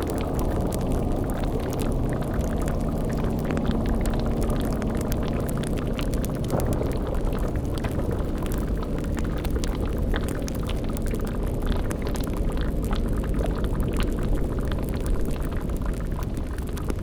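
Layered spooky ambience: a steady low rumble and drone under a bubbling cauldron, with many small crackles through it.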